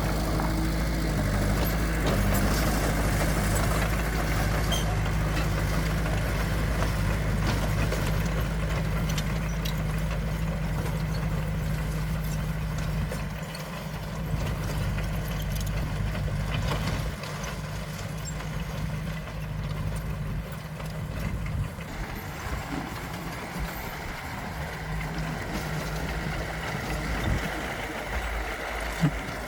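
Diesel engine of heavy earthmoving machinery running steadily, dropping in level about halfway through and easing further near the end.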